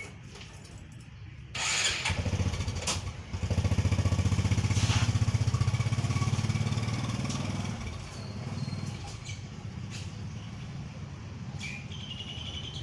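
A small engine starts suddenly, runs loudly with an even low throb for several seconds, then fades away.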